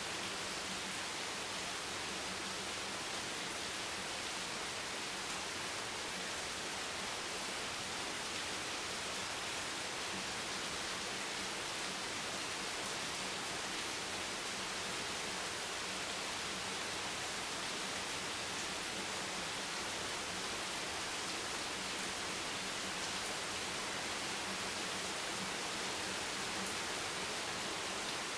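Steady rain making a continuous, even hiss, with no separate drops or other sounds standing out.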